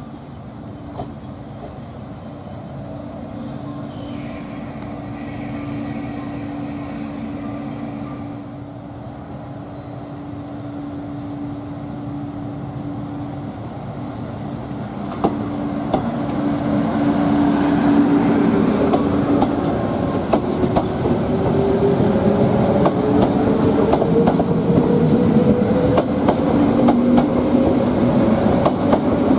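Train at a station platform: a steady low hum at first, then getting louder from about halfway, with a note that slowly rises in pitch as the train gathers speed and wheels clicking over rail joints.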